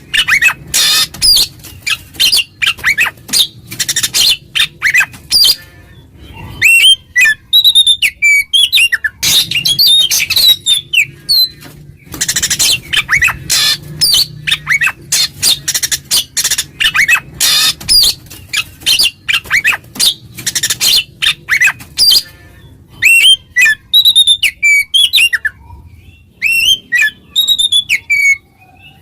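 Oriental magpie-robin (kacer) singing loudly in full song: rapid runs of harsh, scratchy chattering notes alternating with clear whistled phrases that slide up and down. It is the bird's challenge song, which calls rival males and riles them.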